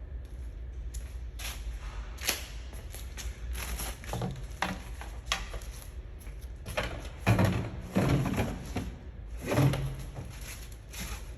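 Gear being handled and shifted about: irregular knocks, clunks and rustling, with a few heavier thuds about seven to ten seconds in.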